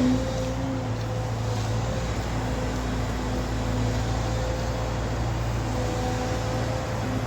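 Heavy engine running steadily: a low droning hum with a fainter higher tone above it that comes and goes.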